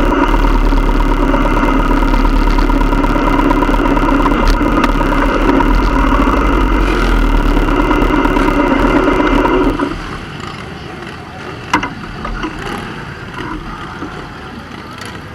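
Motorcycle engine running steadily, then cutting out abruptly about ten seconds in, leaving quieter background with a single sharp click soon after.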